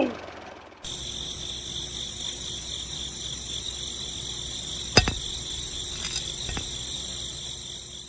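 A steady high-pitched insect trill, like a cricket's, that starts and stops abruptly, with a sharp click about five seconds in and a fainter click later.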